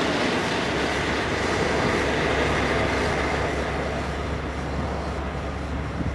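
Regional-Express double-deck train passing close by, its DB Class 112 electric locomotive at the rear going past, the rolling rumble with a steady low hum slowly fading as the train moves away.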